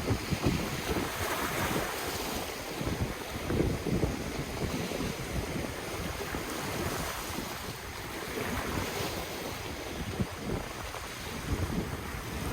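Ocean waves washing onto the shore, the surf swelling about a second in and again about two-thirds of the way through, with wind buffeting the microphone in low gusts.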